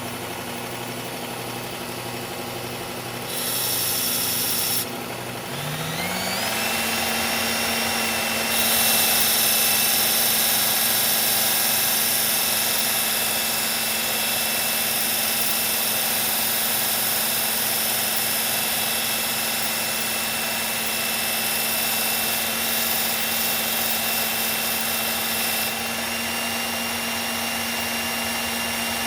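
Belt grinder motor running, its pitch rising to a higher steady speed about six seconds in, with a knife blade ground against the abrasive belt in a short pass before that and a long continuous pass from about nine seconds in until near the end. The steel blade is being reprofiled to a 20-degree edge to raise a burr.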